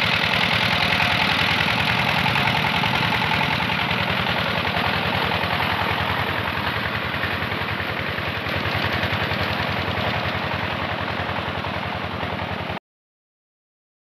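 Diesel engine driving a tubewell pump, running steadily with rapid, even firing pulses. The sound cuts off abruptly near the end.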